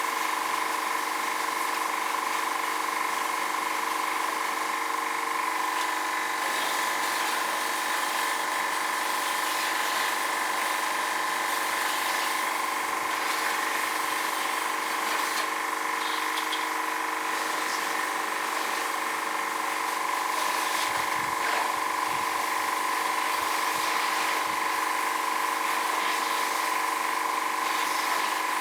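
Pressure washer pump running steadily with a constant whine, and the hiss of its water jet blasting dust out of a split air conditioner's indoor coil during a service clean.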